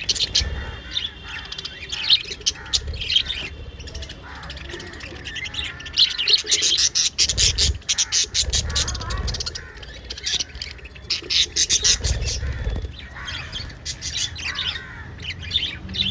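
Lovebirds chattering in rapid, high-pitched chirps, with busier, louder bursts about six seconds in and again about eleven seconds in.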